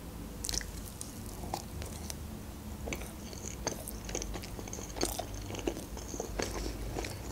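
Mouth sounds of biting and chewing a soft marshmallow: scattered wet smacks and clicks, starting about half a second in.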